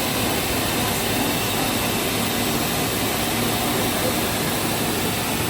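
Steady mechanical noise of a CNC woodworking milling and turning machine running, an even hiss and hum without breaks.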